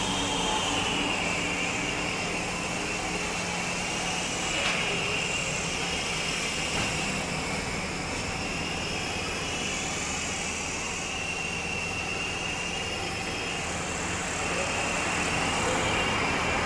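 Small coreless DC motors of a homemade RC helicopter spinning their propellers with a steady high-pitched whine, the pitch drifting gently up and down.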